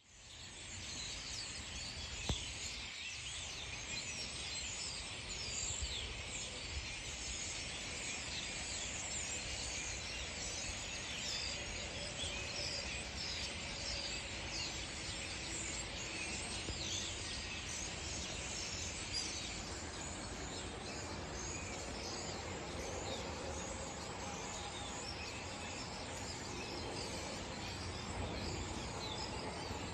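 A large flock of European starlings chattering in a tree: a dense, unbroken chorus of many overlapping chirps and whistles. A single sharp click stands out about two seconds in.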